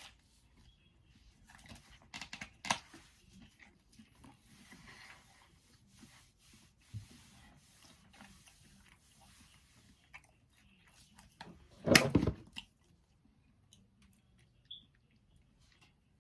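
Close-up eating sounds of pizza being bitten and chewed, with small crunches and clicks, and one short loud sound about twelve seconds in.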